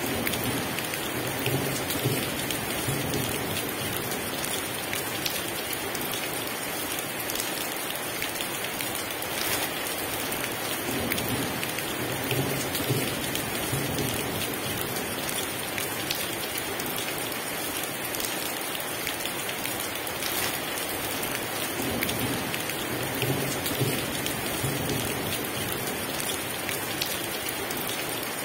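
Heavy rain pouring steadily, with low rumbles of thunder three times, about ten seconds apart.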